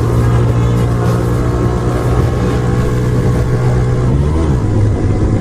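Motorcycle engine running through a loud aftermarket exhaust, holding a steady drone; about four and a half seconds in the revs ease and the pitch drops slightly.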